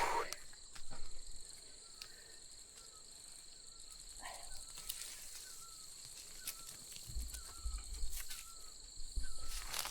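Steady high-pitched chorus of insects chirring, with a faint short chirp repeating roughly every second in the second half and a few scattered clicks.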